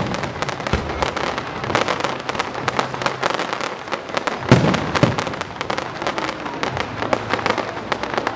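Fireworks going off: a dense crackle of many sharp small bursts, with heavier booms at the start and about four and a half seconds in, the latter the loudest.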